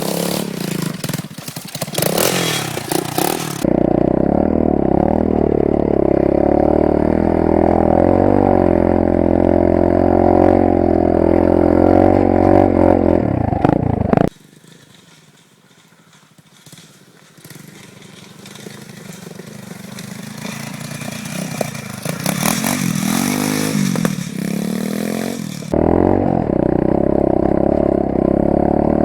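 A 125cc four-stroke pit bike engine running hard, heard on board, with rattling and rushing noise at first. About halfway through the sound drops suddenly to a much quieter stretch in which an engine climbs slowly in pitch. The loud engine cuts back in abruptly near the end.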